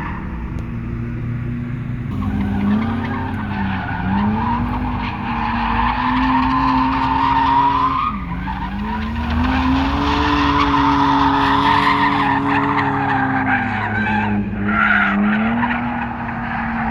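A car drifting: its engine revs climb and drop repeatedly as the throttle is worked, with a tire squeal over it. There is a sharp drop in revs about halfway through, then they build again.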